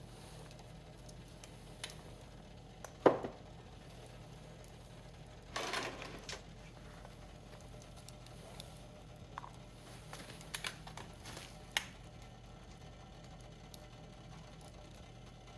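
Wood fire burning in a Picogrill fire pit, crackling with scattered sharp pops, the loudest about three seconds in and a short run of crackles around six and eleven seconds, over a faint steady low hum.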